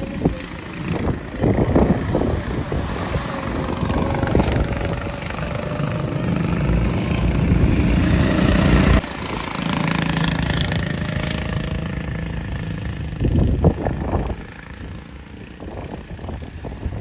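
Racing go-kart engines running on the track, their notes slowly gliding in pitch as karts pass, with wind buffeting the microphone. The sound drops abruptly about nine seconds in.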